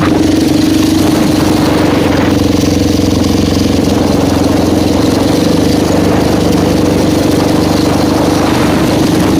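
400cc quad bike engine idling, a loud, steady running note.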